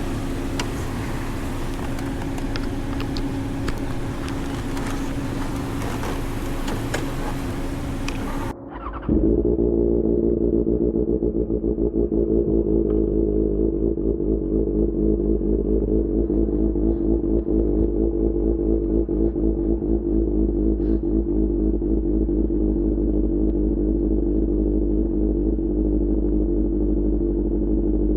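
SRK600 motorcycle with an Austin Racing GP1R exhaust. For about eight seconds its engine is heard under heavy wind noise; then the sound switches abruptly to a louder, muffled engine note running steadily with a fast, even exhaust pulse.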